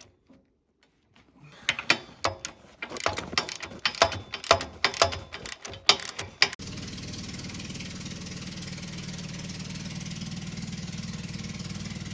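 Irregular metal clicks and knocks, then a sudden switch about halfway through to an engine running steadily at idle.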